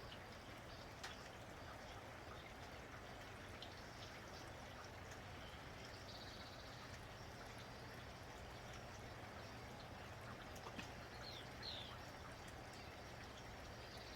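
Steady rain falling, with scattered drip ticks, and a few brief high bird chirps: one about six seconds in and a pair near the end.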